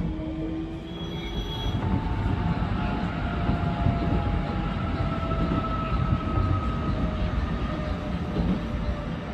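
Passenger train running along the track, heard from inside the carriage: a steady rumble of wheels on rail with faint, drawn-out squealing tones that slide slowly in pitch.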